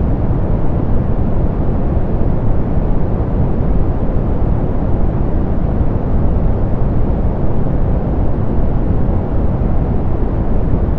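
Steady, softened pink noise: a deep, even hiss with the highs rolled off, unchanging throughout.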